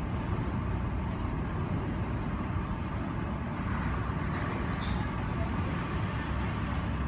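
Steady low rumble heard from inside an airport terminal through the window glass, with a distant jet airliner taking off.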